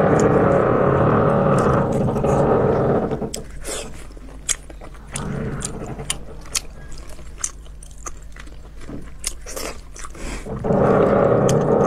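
Close-miked mouth sounds of someone chewing soft, fatty red-braised pork belly: wet smacks and sharp little clicks through the middle. A louder, dense noise fills about the first three seconds and comes back about a second before the end.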